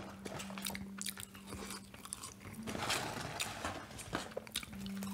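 A person eating McDonald's french fries close to the microphone, chewing with many small, quick crunchy clicks. A steady low hum runs underneath, dropping out for a while in the middle.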